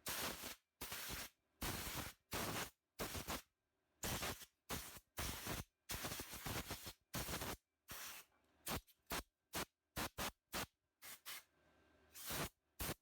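Compressed air from a blow gun in short, repeated blasts, hissing as it blows debris off a small 3.5 hp edger engine. The blasts are irregular, with shorter, quicker bursts in the second half.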